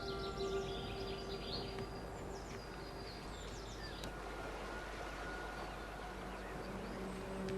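Outdoor ambience with birds giving short, quick high chirps over the first few seconds, while a held music chord fades out; the music comes back near the end.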